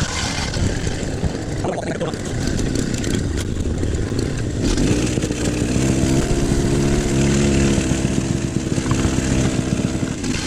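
Diesel excavator engine running under work, with a steady engine drone that grows stronger from about halfway in.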